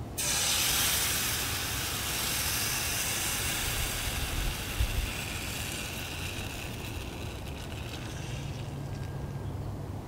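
A steady hiss starts suddenly, is loudest in the first seconds, and fades out about eight seconds in, over a low rumble.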